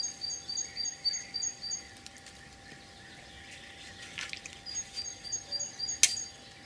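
A small bird calling a quick series of short, high chirps, about four a second, in two runs with a pause between. A single sharp click sounds near the end.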